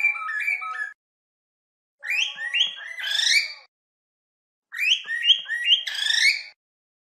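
Cockatiels whistling and chirping in three short bursts of quick rising notes, each broken off by a silent gap.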